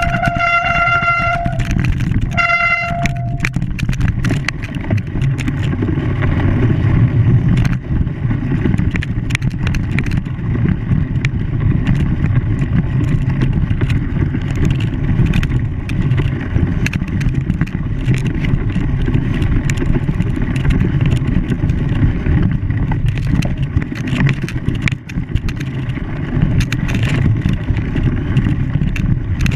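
A horn sounds, held for over a second and then given a second short blast about two seconds in. After it comes the steady low running noise of a vehicle, with frequent clicks and rattles.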